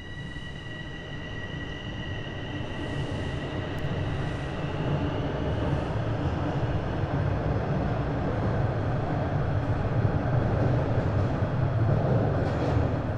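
Bombardier Toronto Rocket subway train running on the track, a low rumble that grows steadily louder. A steady high-pitched whine fades out over the first few seconds.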